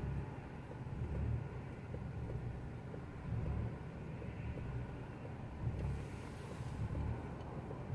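Vehicle engine idling roughly: a low, uneven rumble that swells and dips about once a second instead of running smoothly.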